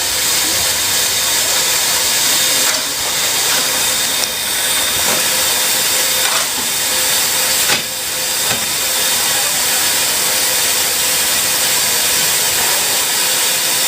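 Steady loud hiss of escaping steam from NZR Ab-class steam locomotive Ab608 as it builds up steam pressure, dipping briefly a few times.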